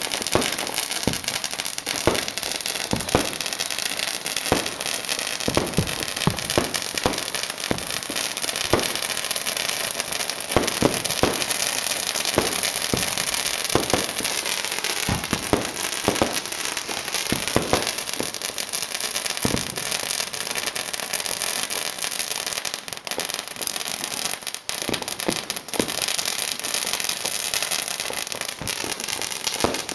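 Many fireworks and firecrackers going off at once: a continuous dense crackle with many separate sharp bangs, most frequent in the first two-thirds.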